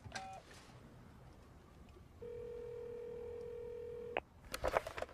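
Push-button telephone key tone right at the start, then the ringback tone of the call ringing at the other end, heard through the handset: one steady tone about two seconds long that cuts off with a click. A few knocks and rustles follow near the end.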